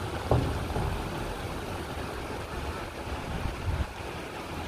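Heavy cyclone rain pouring steadily, with gusting wind. A sharp thump comes just after the start, and low gusty rumbles follow near the end.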